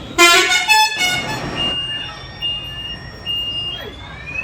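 Road traffic: a loud vehicle horn blast near the start and a shorter one after it, then three evenly spaced high electronic beeps, then rising electronic whoops near the end, like a vehicle's reversing or warning alarm.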